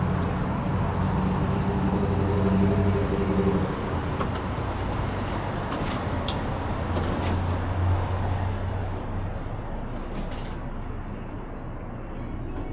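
Road traffic noise with a motor vehicle's engine humming; the hum is strongest for the first few seconds, eases, and comes up again midway before fading.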